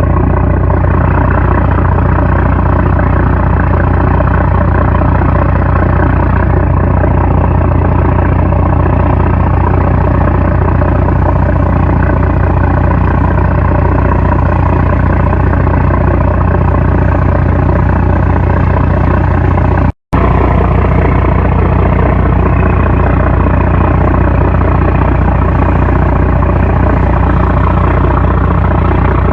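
A 750-horsepower trawler's diesel engine running loud and steady with a deep hum, cutting out for an instant about two-thirds of the way through.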